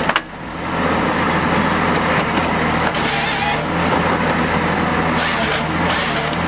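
A heavy machine's engine running steadily, with short bursts of hissing about three seconds in and again near the end.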